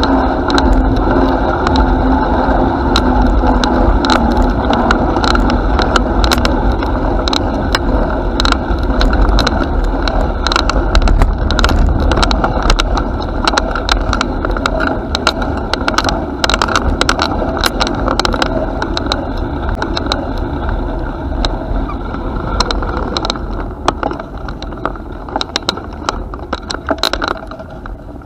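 Bicycle riding along a path: a steady rush and rumble, with frequent sharp clicks and rattles from the bike. The rumble eases over the last few seconds, leaving the rattles more separate.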